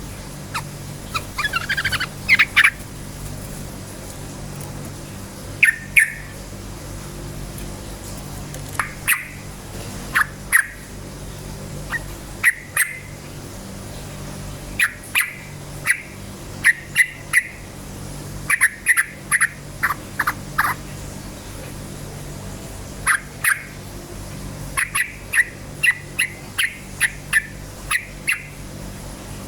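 Yellow-vented bulbul (trucukan) calling: short, sharp chirps, often in quick runs of two to four, repeated at irregular intervals over a steady low hum.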